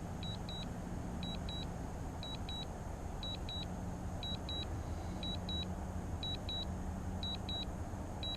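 Drone remote controller sounding short high double beeps, about one pair a second, as the drone flies its automatic return-to-home. A steady low hum runs underneath.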